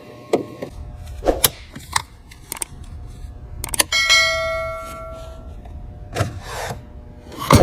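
Metal parts and tools clinking and knocking, with one ringing metallic clang about four seconds in that fades over a second or so. A low steady rumble runs underneath.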